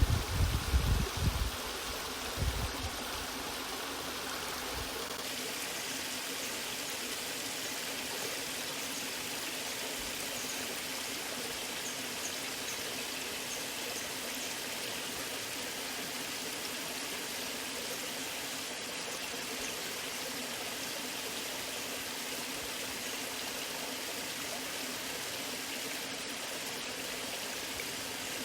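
Waterfall rushing steadily, an even wash of falling water. Loud low rumbles come and go during the first couple of seconds.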